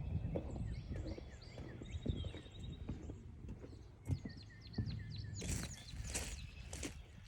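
Footsteps thudding along a forest trail while small birds chirp in short repeated notes. A few louder rustles come near the end.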